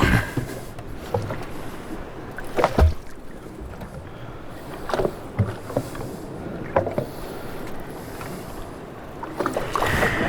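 Water sloshing against a boat's hull, with a few knocks on deck, the loudest a little under three seconds in.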